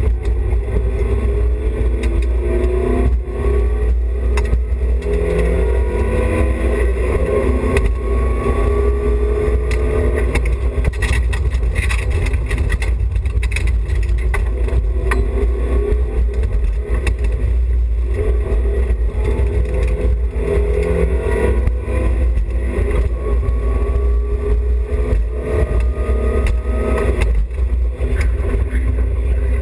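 BMW E30 316i rally car's 1.6-litre four-cylinder engine revving hard at full throttle, its pitch climbing again and again and dropping back at each gear change, over a steady low rumble.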